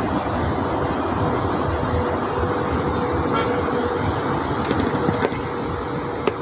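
Steady rushing noise, strongest and most uneven in the low end, with a faint steady hum and a few light clicks near the end.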